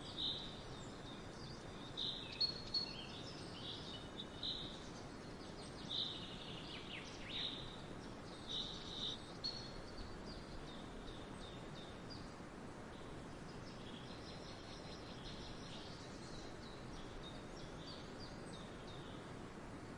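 Small birds chirping in short, high calls, over and over, with a steady background hiss. The chirps are loudest and most frequent in the first half and grow fainter later.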